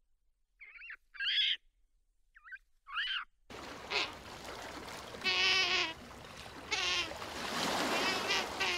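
Two pairs of short, wavy bird calls. Then a steady outdoor background cuts in, and an animal gives a series of wavering calls, the longest in the middle lasting under a second.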